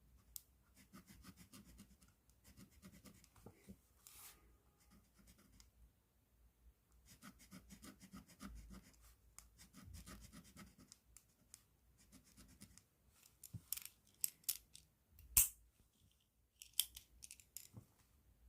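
Pen tip scratching across paper in bursts of quick strokes, as in writing or colouring. In the last few seconds come sharper clicks and one louder knock.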